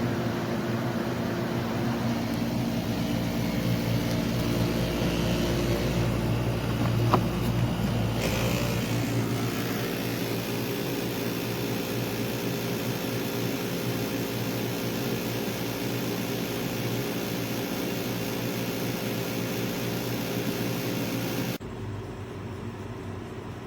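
SereneLife portable air conditioner running: a steady hum of compressor and fan with several steady tones and airflow hiss. A sharp click comes about seven seconds in, and the sound changes slightly just after. Near the end the high hiss drops away suddenly.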